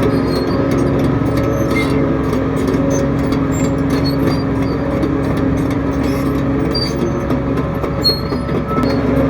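Shantui DH17 bulldozer's diesel engine running steadily, a constant even hum with faint scattered clicks over it.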